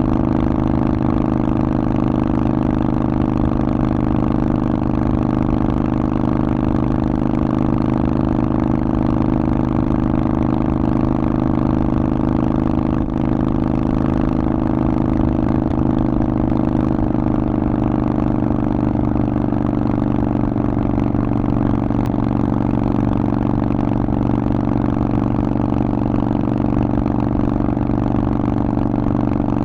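Harley-Davidson Forty-Eight's 1200 cc air-cooled V-twin running steadily through a Vance & Hines aftermarket exhaust. The engine note holds an even pitch, easing slightly lower in the second half.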